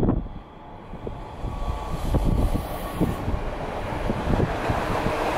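DB Class 442 Talent 2 electric multiple unit approaching and passing beneath, its running noise building steadily from about a second and a half in. A gust of wind hits the microphone at the start.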